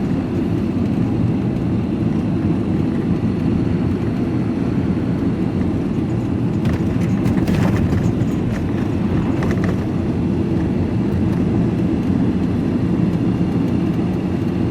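Steady engine and road noise inside a vehicle's cab while driving, a low even rumble with a few faint clicks partway through.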